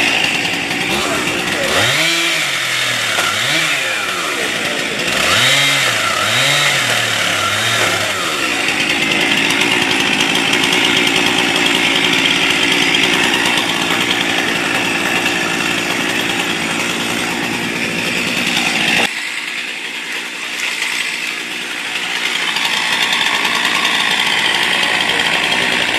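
Chainsaw revved up and down several times, then held at a steady high-speed run. About nineteen seconds in, the sound changes abruptly and loses its low end.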